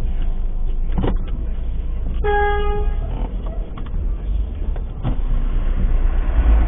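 A car horn gives one short beep, a little over half a second long, about two seconds in, over a steady low rumble of vehicle engine and road noise. Two short clicks come about a second in and again about five seconds in.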